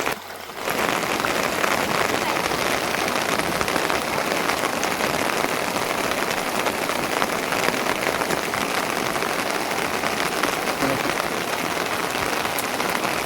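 Steady rain falling, a dense even patter.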